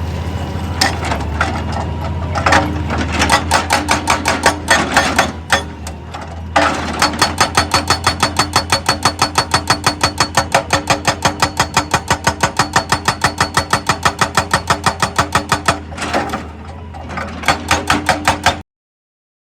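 Excavator at work, its engine running with a steady low hum under irregular knocks. About a third of the way in, a rapid, even hammering of about five strikes a second starts and runs for around nine seconds. The sound cuts off abruptly near the end.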